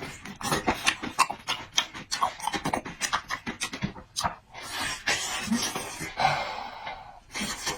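Close-up mouth sounds of a person eating: wet chewing and lip smacks, many short clicks, with a longer breathy stretch about five seconds in.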